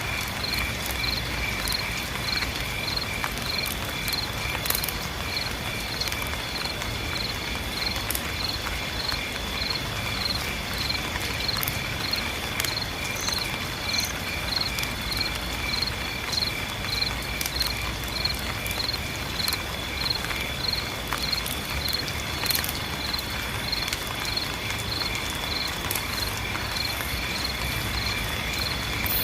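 Insects chirping in an even pulse, about two to three chirps a second, over a steady high trill and a soft hiss of rain with scattered drips.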